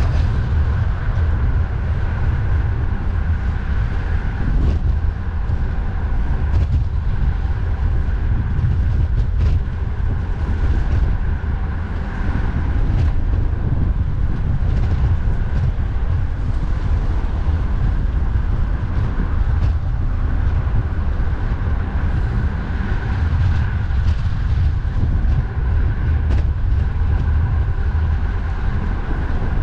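Wind buffeting the microphone with road traffic noise during a bicycle ride: a loud, steady low rumble with no break.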